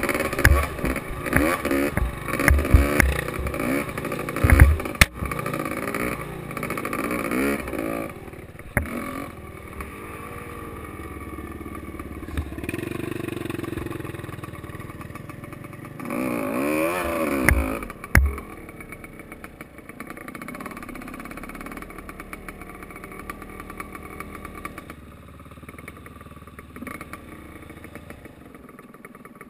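Gas Gas EC 250 enduro motorcycle engine revving up and down on the throttle over a bumpy dirt track, with knocks from the bike, then easing off. A short burst of revs comes about two-thirds of the way through, and the engine settles to an even idle for the last ten seconds.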